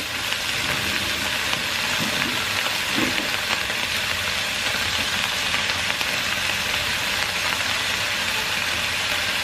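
Baby kailan stems, onion and garlic sizzling steadily in hot oil in a non-stick wok.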